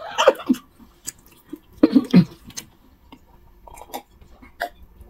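Close-miked chewing and wet mouth sounds of people eating fufu and nsala soup by hand. The chewing comes in two louder bursts, at the start and about two seconds in, with small clicks between.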